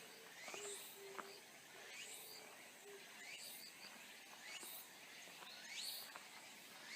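Quiet forest ambience: a high call that rises quickly in pitch, repeated about every second, over a faint background hiss, with a few short low hums in the first three seconds.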